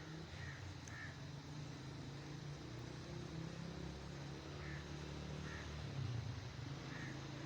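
A bird giving about five short calls, spaced a second or more apart, over a steady low rush of flowing river water.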